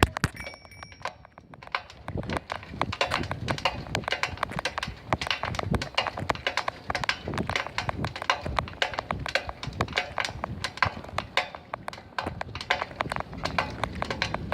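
A bicycle making a rapid, uneven run of clicks and knocks, several a second. This is the unexplained strange noise coming from the bike.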